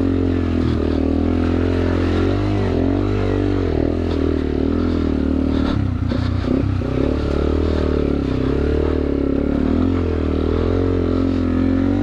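2009 Yamaha TW200's single-cylinder four-stroke engine running while being ridden, its revs rising and falling steadily throughout. There is a brief dip in the revs about six seconds in.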